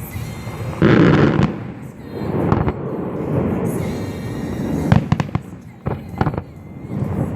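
Fireworks display, aerial shells bursting: a loud burst about a second in, then a steady rumble of explosions and a quick run of sharp cracks and bangs near the end.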